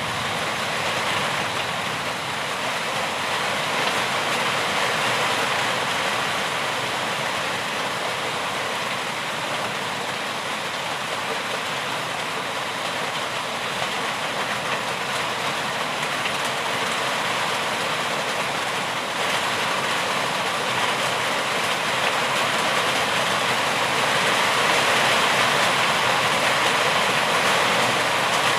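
Rain falling steadily: a continuous, even hiss of noise that grows slightly louder near the end.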